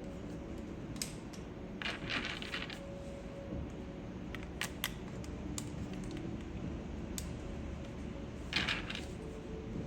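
Small hard clicks and taps from mechanical keyboard parts being handled during assembly, a few isolated clicks with two short scratchy bursts, the second near the end.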